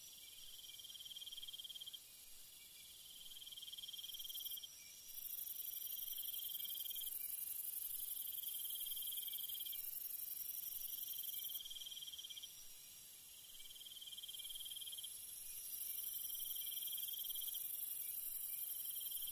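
Night insects calling. A cricket-like trill of about a second repeats every two seconds or so over a very high, steady insect drone. The drone grows loud about five seconds in, eases off around twelve seconds, and returns near sixteen seconds.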